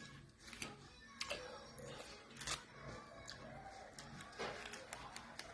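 Irregular sharp clicks and light rustling, with a faint voice in the background.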